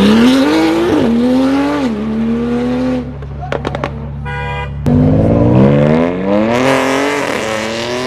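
Sports car engines revving and pulling away hard, the pitch climbing, dropping at each gear change and climbing again. There is a short quieter break with a few sharp clicks about three seconds in. Then another car accelerates, rising in pitch twice.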